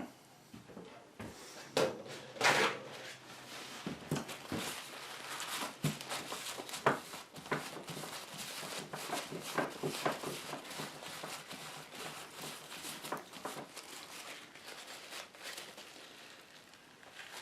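Rustling and crinkling with many light clicks and knocks, like objects being handled and moved about.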